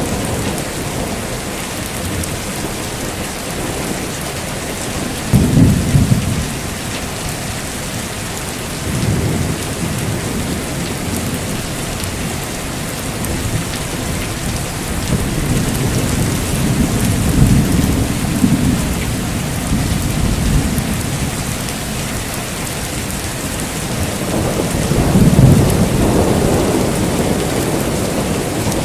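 Heavy rain falling steadily with rolling thunder: several low rumbles swell and fade, the loudest about five seconds in and again near the end.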